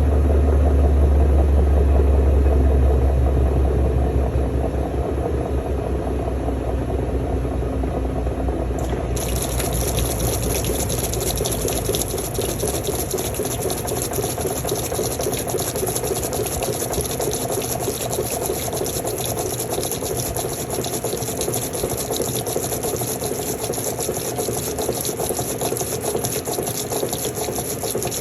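Washing machine in its spin cycle: a strong deep motor hum for the first few seconds that then fades, and from about nine seconds in a steady rush of water.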